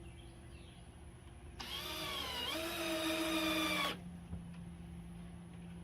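Power drill driving a screw in, running for about two seconds with its pitch dipping once partway through.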